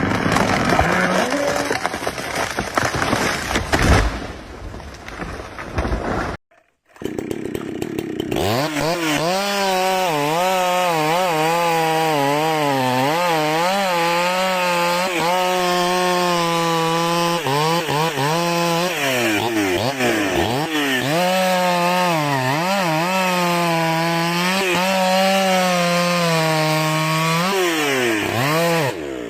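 Chainsaw running under load while cutting wood, its engine pitch dipping and recovering again and again as the chain bites. It is preceded by a few seconds of rough noise and a brief dropout to silence.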